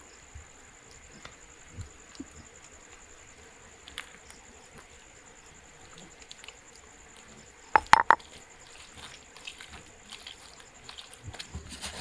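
Insects trilling steadily in a high, fast-pulsing tone, with scattered faint clicks. About eight seconds in comes a brief cluster of three or four loud, sharp knocks.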